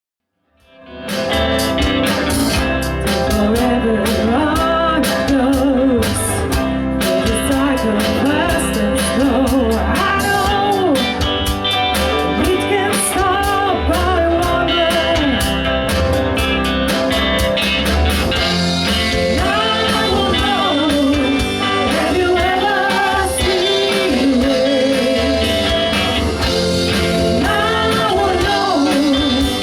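Band playing a rock song with a lead singer, guitar, bass and drums. The music comes in abruptly about half a second in.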